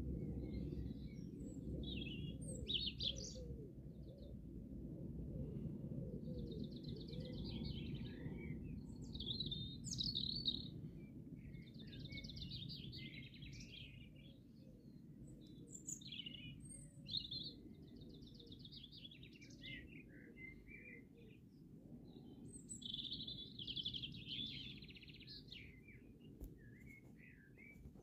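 Songbirds singing and calling, with a rapid high trill every few seconds, over a low steady background rumble.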